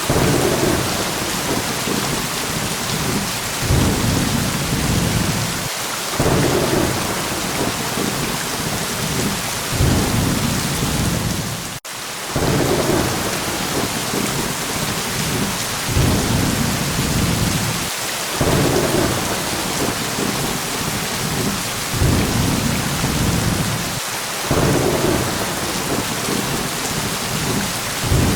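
Steady heavy rain with low thunder rumbles swelling up again every few seconds. There is a momentary dropout a little under halfway through.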